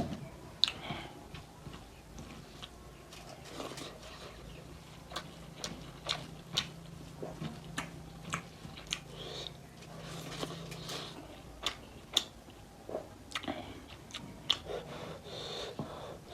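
Close-miked eating of mutton nalli curry with rice: wet chewing, biting and lip smacks, with irregular sharp clicks a few times a second.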